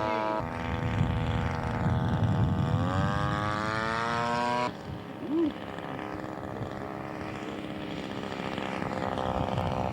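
Large scale model airplane engine running, its note rising in pitch for a couple of seconds. About halfway it drops off suddenly to a quieter, steadier engine drone.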